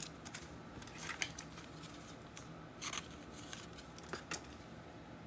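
Faint, scattered clicks and rustles of trading cards and pack wrappers being handled, a few soft crinkles spread over the few seconds.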